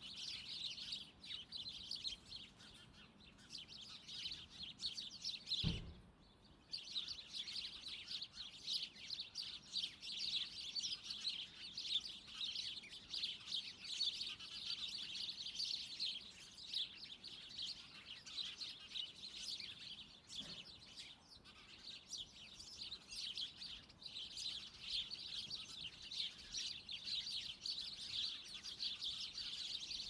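Small birds chirping and singing continuously in a dense, high-pitched chorus. A short low thump comes about six seconds in, and the chirping drops out for about a second after it.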